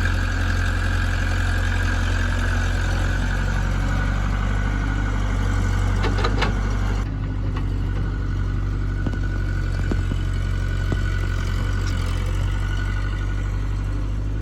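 Heavy diesel engine running steadily at a low drone, with a few short knocks and clanks. The sound changes abruptly about halfway through.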